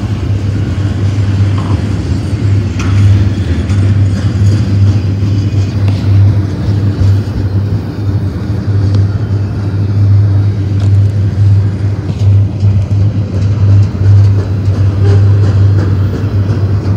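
Double-stack container well cars of a freight train rolling past close by: a steady low rumble of steel wheels on the rails, with a few faint clicks and squeaks.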